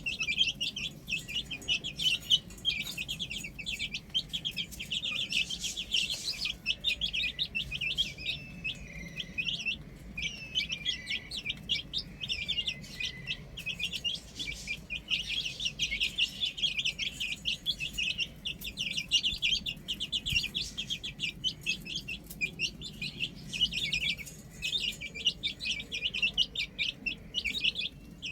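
A flock of baby chicks peeping without pause: many short, high chirps overlapping in a rapid, continuous chorus.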